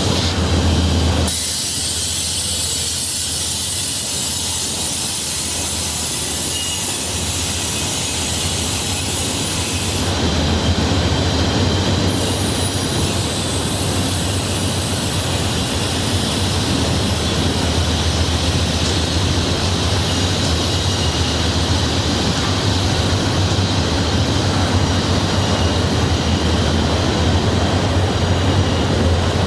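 Norfolk Southern freight train rolling past, with steady wheel-on-rail noise. The sound drops suddenly about a second in and grows louder again about ten seconds in.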